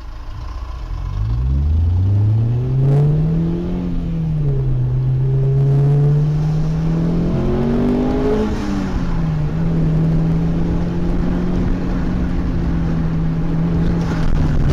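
A vehicle engine running under acceleration. Its pitch climbs over the first few seconds, drops as it changes gear, climbs and falls again about halfway through, and then holds a steady note.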